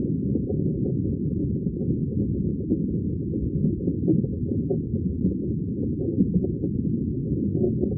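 Underwater ambience: a steady, muffled low rumble of water with fine bubbling, with nothing heard above a low pitch range.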